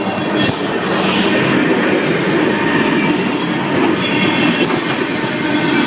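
Freight train cars rolling past at a level crossing: a steady rumble and clatter of steel wheels on the rails.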